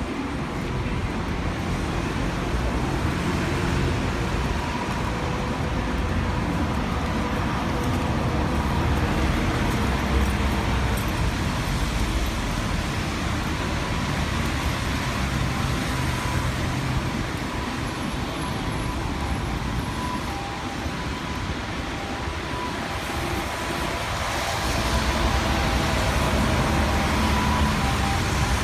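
City street traffic: a steady rumble and hiss of passing vehicles, swelling louder a few seconds before the end.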